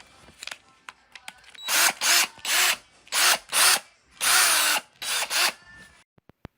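Cordless drill run in about seven short trigger pulls, each time whirring up to speed and winding down.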